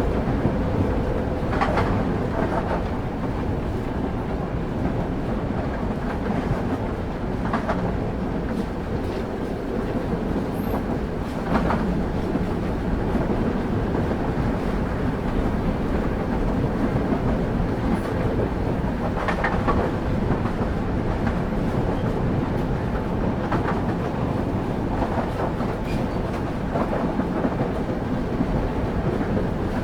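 Train wheels on the rails heard from on board a passenger carriage: a steady rumble, with short clickety-clack groups of clicks every few seconds as the wheels pass over rail joints.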